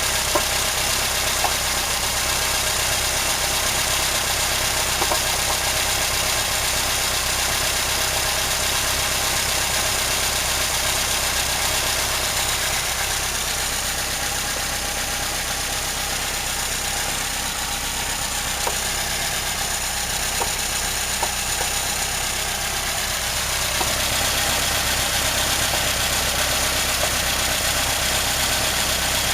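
Cold VAZ-2103 four-cylinder engine idling steadily on petrol at about 900–1100 rpm. A few light knocks come at irregular intervals, the non-periodic knocking whose cause the owner is trying to find.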